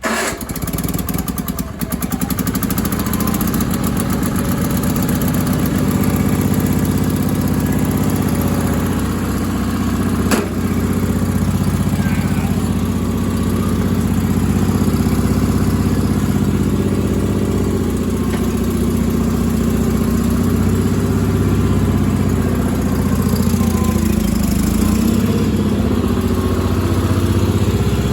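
Onan engine of a Sears Suburban garden tractor catching on choke after about two months of sitting, stumbling for the first couple of seconds, then running steadily. A single sharp click about ten seconds in.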